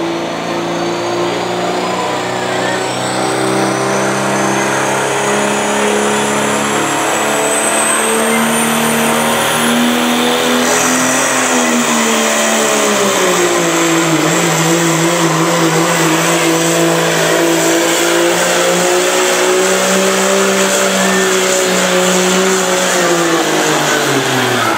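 Turbo-diesel pickup engine held at high revs under full load pulling a sled, with a high turbo whistle climbing in pitch over the first ten seconds. The engine note sags a little about halfway through as the load bears down, holds steady again, then drops off just before the end.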